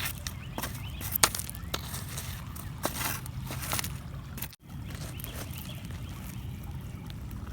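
Water sloshing and lapping, with a few short, sharp clicks or knocks, the loudest about a second in. The sound breaks off for an instant near the middle.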